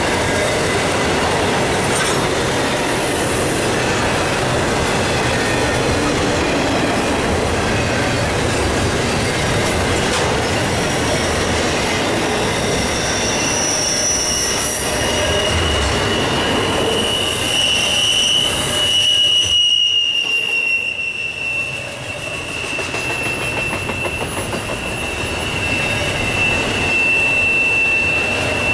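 Double-stack intermodal well cars of a freight train rolling past: steady wheel and rail noise. A high steady squeal of the wheels comes in about halfway through and carries on to the end.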